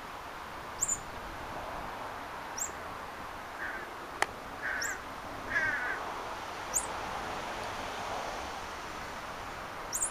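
Birds calling: several short, high chirps a couple of seconds apart, and around the middle three short, rough calls in quick succession. A single sharp click comes about four seconds in.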